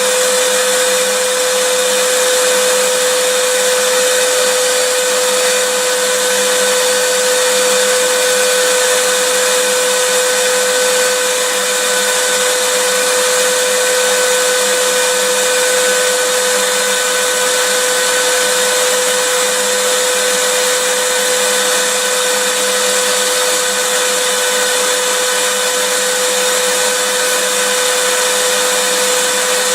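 Vacuum cleaner motor running steadily: a continuous rushing whoosh with a strong steady hum and fainter higher whines, with no change in pitch or level.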